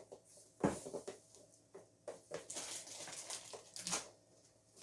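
Plastic toy parts being handled and fitted together: a sharp knock about half a second in, a stretch of rustling, and another click near the end.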